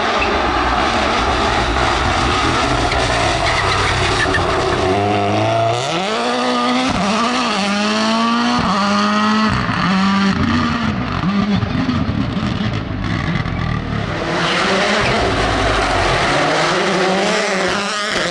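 Rally car engine running hard on a stage. Its pitch climbs and drops sharply several times in quick succession as it accelerates up through the gears.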